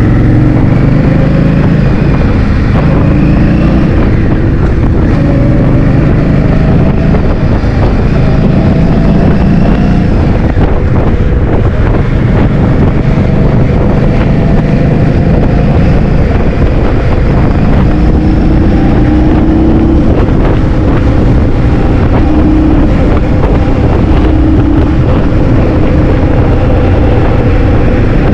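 Heavy wind buffeting on the microphone while riding a motor scooter, with the engine's whine faintly rising and falling underneath.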